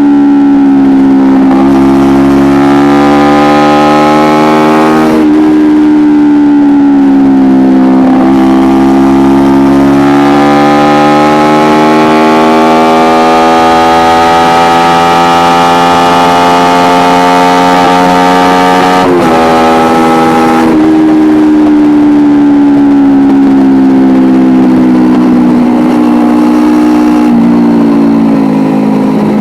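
Kawasaki Ninja 250R's parallel-twin engine breathing through an Akrapovic exhaust, heard onboard while riding. The engine note rises and falls smoothly with the throttle, with a few abrupt jumps in pitch.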